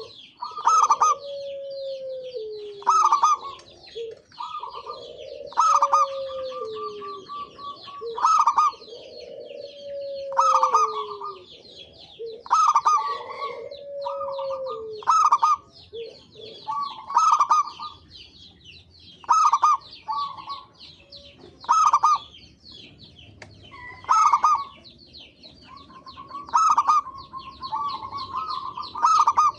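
Zebra doves (perkutut) cooing, a loud phrase repeated about every two seconds. In the first half a lower, falling note comes between the phrases, and high chirping of other birds runs throughout.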